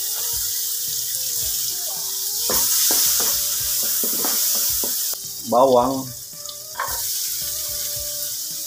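Sliced ginger sizzling in hot margarine and oil in a metal wok, with a wooden spatula scraping and knocking against the pan. The sizzle grows louder about two and a half seconds in, dips briefly around a spoken word, then carries on as chopped garlic goes in.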